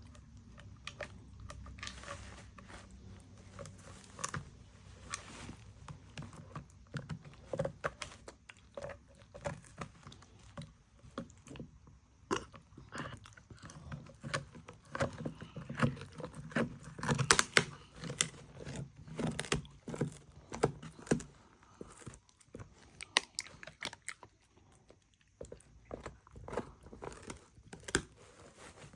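Dog chewing and biting food, with irregular crunches and clicks, sparser near the end.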